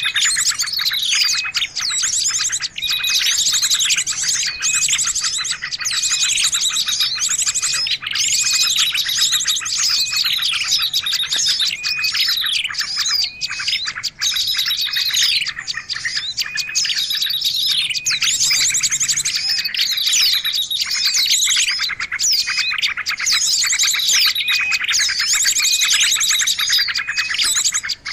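Dense chorus of small songbirds: many overlapping high chirps and fast, buzzy trills, with phrases repeating over and over, as in a bird-lure (pikat) call recording mixed from several small-bird species.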